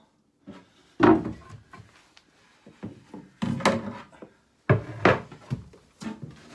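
A series of irregular knocks and thuds, the loudest about a second in, then a cluster of them in the middle and another near the end.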